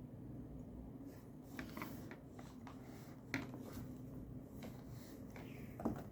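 Pen and paper being handled at a desk: short scratchy rustles with two sharp clicks, one about three seconds in and one near the end, over a steady low hum.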